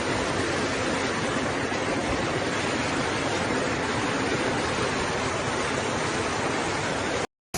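Floodwater rushing, a dense steady noise with no let-up; it cuts off abruptly near the end.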